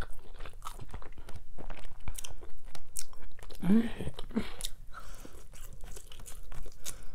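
Close chewing and biting on barbecue ribs: wet smacks and crunchy clicks of teeth tearing meat off the bone, with a short hum of the voice about four seconds in.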